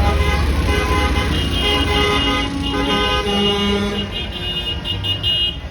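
Truck horns honking, several horns at different pitches overlapping and sounding in long blasts, over the low rumble of passing truck engines.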